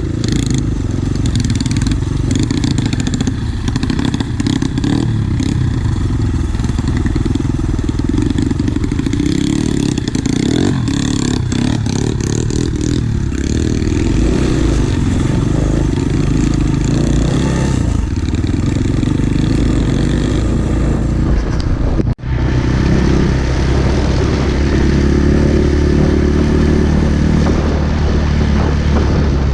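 Pit bike engine running as the bike is ridden along. It keeps going at riding revs. An abrupt break about two-thirds of the way through is followed by a steadier engine drone.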